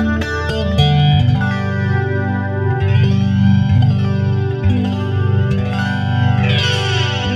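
Mexican-made Stratocaster electric guitar played clean through an amp setting with a little chorus: chords and notes ring out with a sweeping shimmer.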